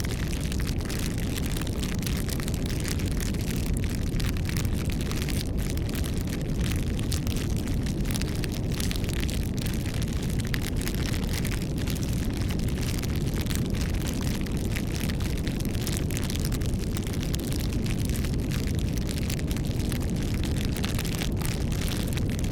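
Campfire burning: a steady low rumble with a dense, continuous scatter of small crackles and pops.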